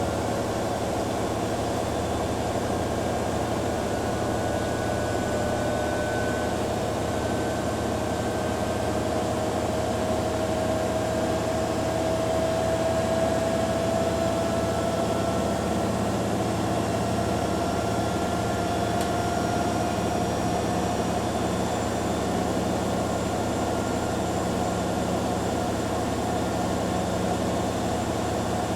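Two front-loading washing machines, a Hoover Dynamic Next DXA610IW3 and a Beko Pro AquaTech WX94044EO, running their spin cycles together with a steady drum rumble. A motor whine rises slowly in pitch over the first half, then holds.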